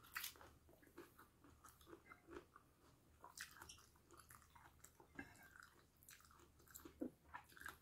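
Faint chewing and mouth sounds of someone eating fried minced pork and banana, with scattered small irregular clicks.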